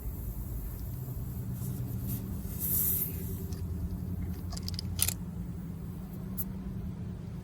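A motor running steadily with a low hum, with brief faint hissing and a sharp click about five seconds in.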